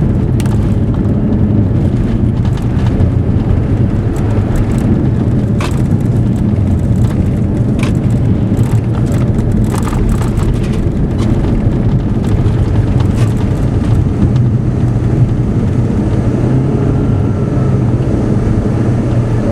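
Steady car engine and road noise inside a moving vehicle, with a few brief clicks scattered through it.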